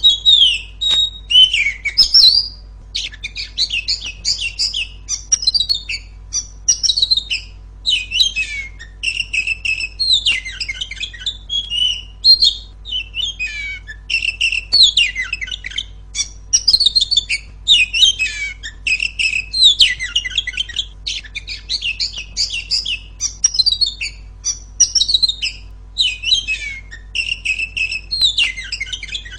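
Oriental magpie-robin singing: a loud, continuous stream of rapid, varied whistled and chattering phrases with only brief pauses between them.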